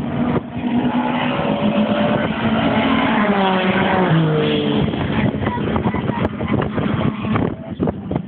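Renault Alpine A110 engine revving. Its pitch climbs and then drops sharply about four seconds in, and the later part is rougher, with many short sharp crackles.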